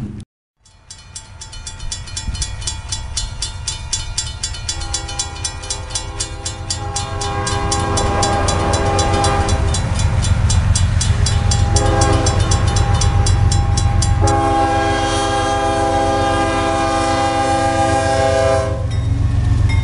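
Train passing close by with its locomotive air horn sounding in several blasts from about five seconds in. The last blast is long and the loudest. Under it runs a rapid, even clatter that stops about fourteen seconds in.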